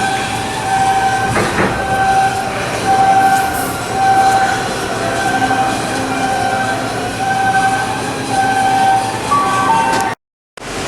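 Shipyard machinery running steadily, with a high steady tone that keeps switching on and off; it cuts off suddenly near the end.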